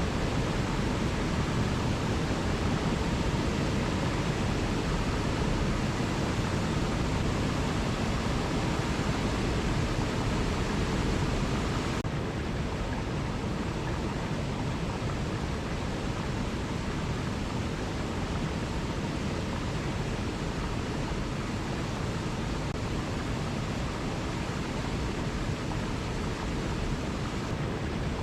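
Waterfall rushing in a steady, even roar of falling water. About twelve seconds in the higher hiss drops away abruptly and the sound turns duller.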